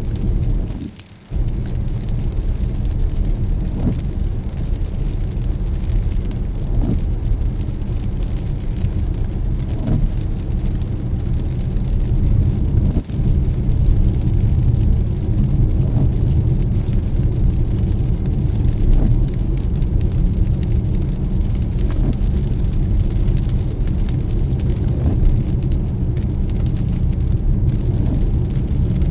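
Car driving in the rain: a steady low rumble of road and engine with rain noise over it, and a faint tick about every three seconds. The sound drops away briefly about a second in.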